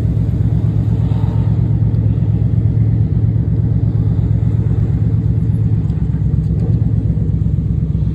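Dodge Charger SRT8's HEMI V8 engine running steadily with a deep, even drone, heard from inside the car, with no revving.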